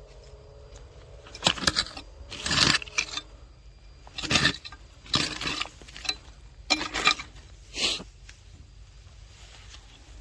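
Rotten firewood being handled and broken apart: about six short, rough crackling and scraping bursts a second or so apart.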